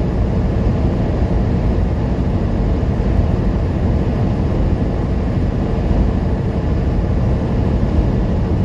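Steady low drone of a semi truck's diesel engine and road noise, heard from inside the cab while driving at speed.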